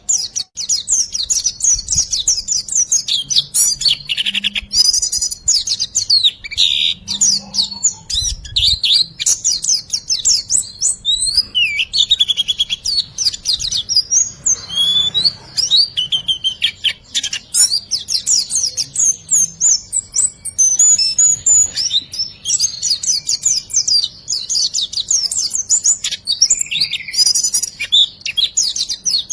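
Songbird singing a rapid, non-stop stream of high-pitched chirps, twitters and trills, packed with 'riwikan' variations: a tutor song for training cage birds.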